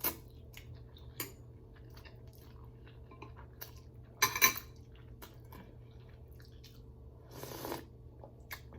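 Close-up eating sounds of ramen noodle soup: scattered small chewing clicks and mouth smacks, with a louder slurp or utensil clink about four seconds in and another noisy slurp near the end.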